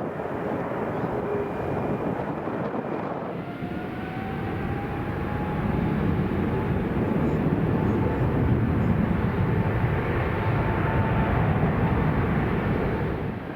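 Jet airliner noise: for the first few seconds an Airbus A330 landing, then a Boeing 777-300ER's GE90 engines at takeoff power, loud and steady, with a whine that slowly rises in pitch.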